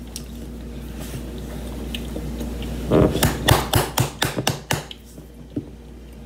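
A person tasting a hot mouthful of pasta Alfredo. After about three seconds of quiet there is a quick run of nine or so sharp, breathy mouth puffs and smacks lasting under two seconds, then one faint click.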